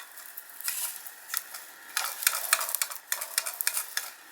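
Tinplate mechanical toy car being pushed along, its clockwork-style mechanism for the winding windows giving rapid metallic clicking and rattling in short spurts, busier in the second half.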